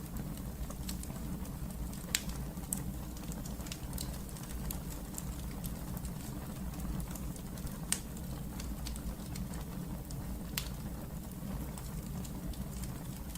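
Wood fire burning in a fireplace: a steady low rumble of flames with scattered sharp crackles and pops, three of them louder, a little after two seconds, near eight seconds and past ten seconds.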